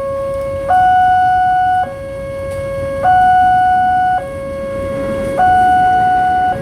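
Railway level-crossing warning alarm sounding a two-tone signal, alternating between a lower and a higher tone about every second: the warning that a train is approaching and the barrier is closing.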